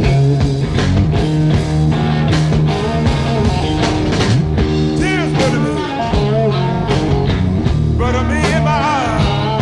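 Slow electric blues-rock: a lead electric guitar plays bending fills between the sung lines, over bass and drums.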